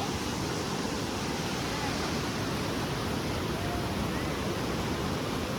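Steady rush of ocean surf breaking on a sandy beach, an even wash of noise.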